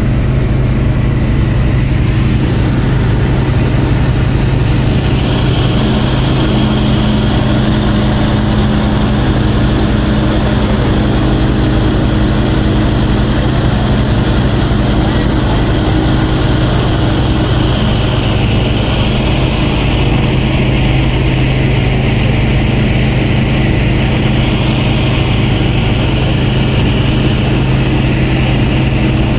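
Light aircraft's piston engine and propeller droning steadily in flight, heard from inside the cabin.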